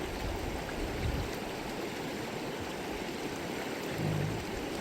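Subalpine creek water rushing steadily over rocks.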